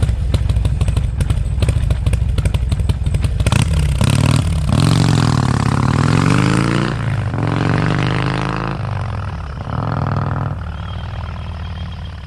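Harley-Davidson Sportster V-twin engine running through Trump mufflers. It gives a lumpy, pulsing low-speed beat for a few seconds, then revs up and down several times and grows gradually quieter near the end.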